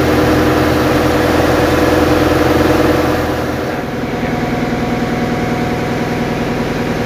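Fishing boat's inboard diesel engine running steadily, heard loud from inside the engine room; its low note drops away and the tone shifts a little under four seconds in.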